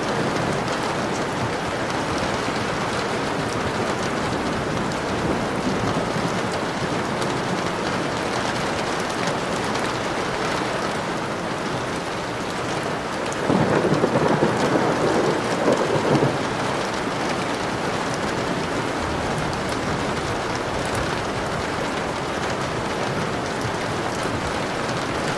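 Steady rain falling, with a roll of thunder rumbling for about three seconds a little past the middle.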